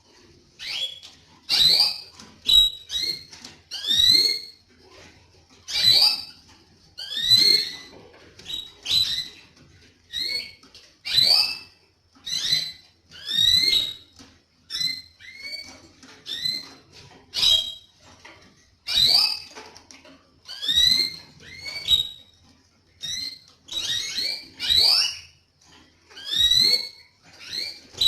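Canaries chirping: repeated short, whistled calls that sweep up or down in pitch, about one a second.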